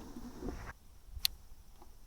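Faint rustling handling noise that stops abruptly, then a single sharp click a little after a second in.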